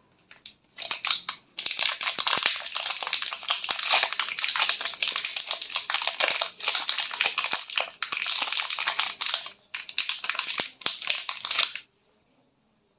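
Close-up handling of dry soap bars and their wrappers: a dense run of rapid scratchy crinkling that starts about a second in and stops suddenly near the end.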